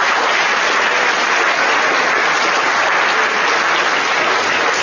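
An audience applauding in a large hall, a steady dense clapping that fades out about a second after the end.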